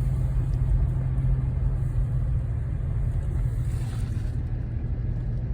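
Fire truck's diesel engine running with a steady low rumble.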